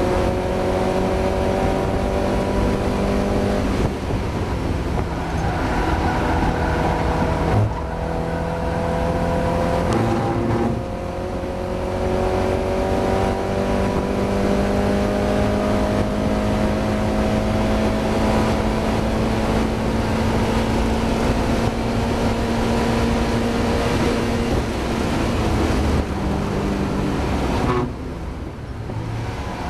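Mazda MX-5 race car's four-cylinder engine pulling under load. Its note climbs slowly in pitch and breaks briefly several times in the first ten seconds, then drops away near the end as the throttle is lifted. The engine is running with a misfire.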